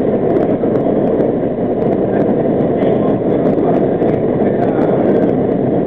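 R40 'Slant' subway car running at speed through the tunnel, heard from inside the car: a loud, steady rumble of wheels and motors on the rails, with small clicks throughout.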